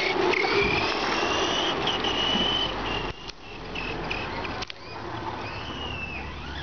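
1/10-scale HSP RC monster truck's motor whining at high pitch as it speeds up, the whine rising at the start and holding for about three seconds before cutting off. It comes back briefly near the end, over the hiss of the tyres on the ground.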